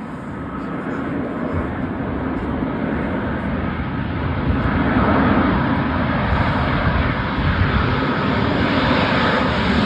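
An arriving aeroplane's engines passing overhead: a steady rushing noise that swells over the first few seconds and then holds loud.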